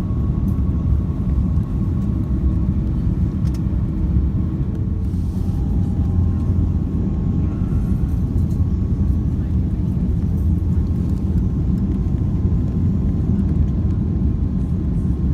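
Steady low rumble of an Airbus A330-200's engines and airflow heard inside the passenger cabin, with a faint thin whine above it.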